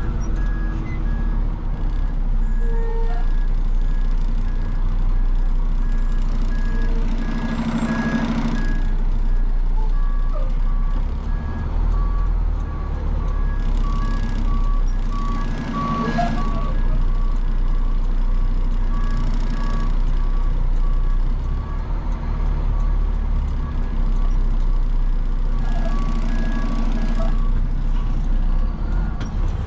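A roll-off dumpster truck's engine runs while its backup alarm beeps steadily. The engine rises in loudness three times, about 8, 16 and 26 seconds in, and a second, lower-pitched beeping joins for a stretch in the middle.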